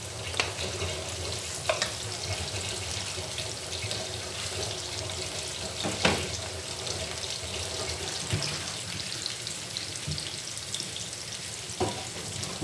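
Julienned ginger and garlic sizzling in hot oil in a frying pan, a steady frying hiss. A few short knocks sound over it, the clearest about six seconds in.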